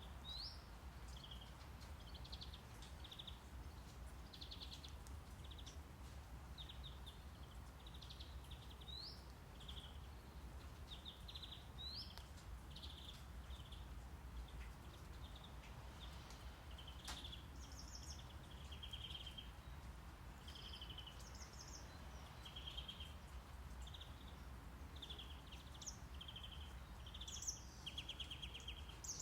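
Steady low brown noise with birds chirping over it: many short chirps and a few quick rising whistles, more of them near the end.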